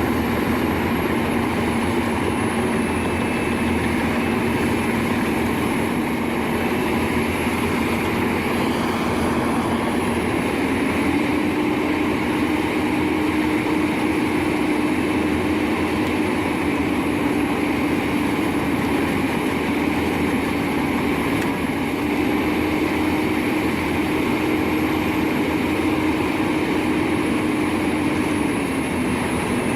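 Albach Diamond 2000 wood chipper running steadily while chipping logs. Its engine note steps up in pitch about a third of the way in, holds, and drops back near the end.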